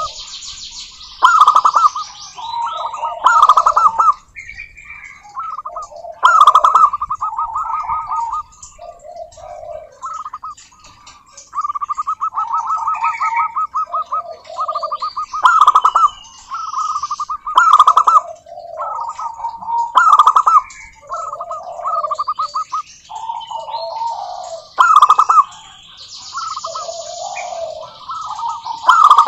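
Several zebra doves cooing their rolling, pulsed song, phrases overlapping and answering each other every second or two, with lower coos in between. Higher-pitched bird chirps and trills run over the top.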